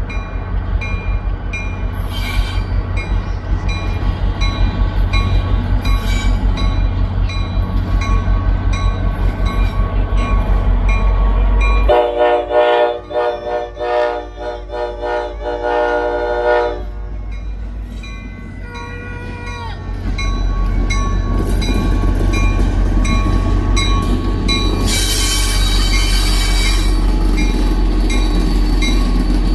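Diesel locomotive running with a steady low rumble while its bell rings. Its air horn sounds once, for about five seconds, about halfway through.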